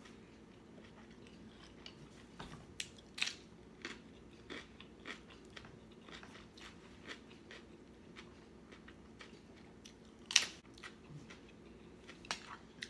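A person biting and chewing raw vegetables close to the microphone, with irregular crisp crunches and a sharp, loudest crunch about ten seconds in.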